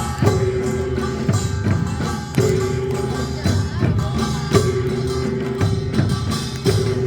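Korean folk music from a live troupe: percussion keeps up a dense beat while a held melodic note comes back about every two seconds.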